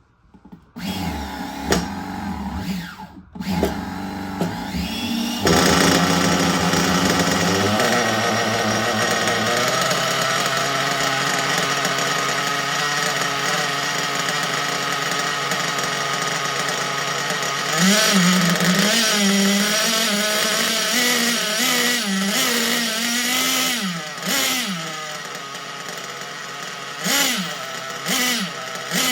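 Glow-plug nitro engine of a 1/8-scale RC buggy being cranked, catching after a few seconds and then running steadily with a high buzz. In the second half it is revved up and down several times.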